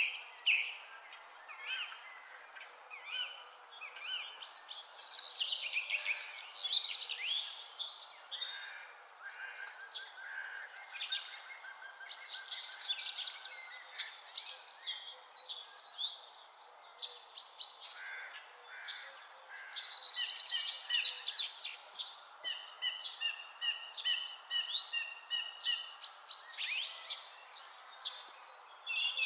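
Several songbirds singing and calling at once in a dawn-chorus mix of quick chirps, trills and repeated phrases, over a steady soft background hiss.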